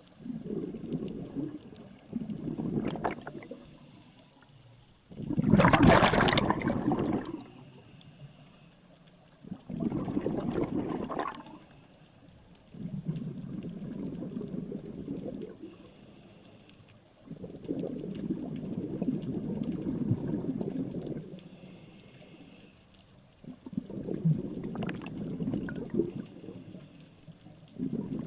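Scuba diver breathing through a regulator underwater, with gurgling bursts of exhaled bubbles every few seconds and quieter gaps between breaths.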